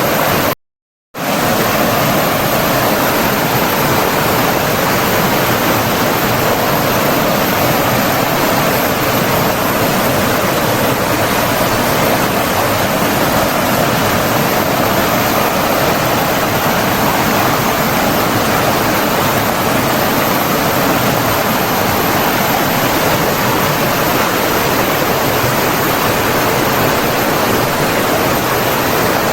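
Flowing water rushing steadily, a dense even noise without change, cutting out completely for about half a second near the start.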